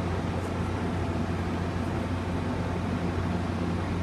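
Two diesel locomotives idling with a steady low engine hum.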